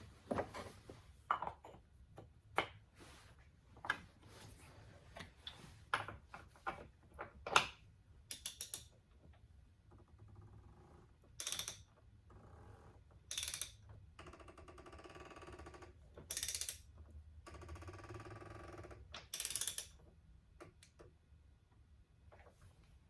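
Hands and tools working at the plastic oil filter housing cap of a BMW X3 inline-six during an oil change: scattered clicks and knocks, then several short rasping bursts with a fainter rattle between them about halfway through.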